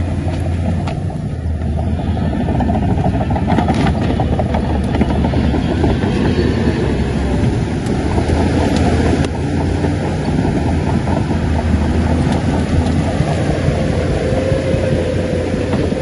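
Shantui crawler bulldozer's heavy diesel engine running steadily, with the dense metallic clatter of its steel tracks over the top. A faint whine comes in near the end.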